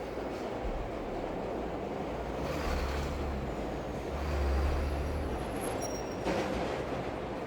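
A train rumbling past in a layered city ambience over a steady rain hiss, the low rumble swelling twice through the middle. Near the end a brief high wheel squeal is followed by a sharp knock.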